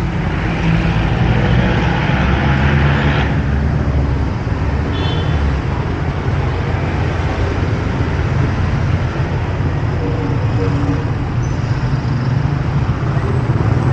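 City street traffic: vehicle engines running and passing close by in a steady hum. A louder rushing noise cuts off abruptly a little over three seconds in.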